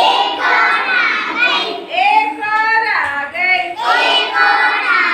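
Children chanting a Hindi counting rhyme about little birds in a high, sing-song voice, line after line with short breaks.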